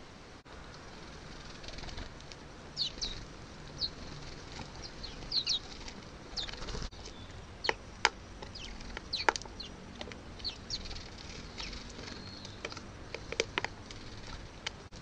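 Garden birds calling: a scattered run of short, high chirps and sharp call notes starting about three seconds in, over a steady hiss.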